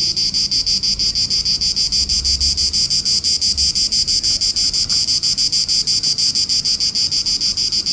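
Small insects calling loudly: a shrill, high-pitched buzz that pulses rapidly and evenly without a break.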